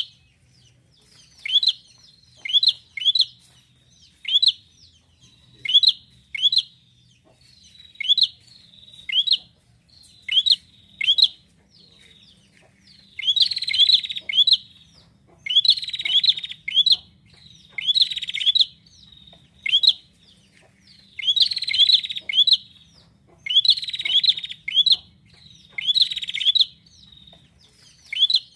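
Prinia (prenjak) calling: sharp, high chip notes repeated in twos and threes, breaking into louder, rougher phrases through the middle stretch.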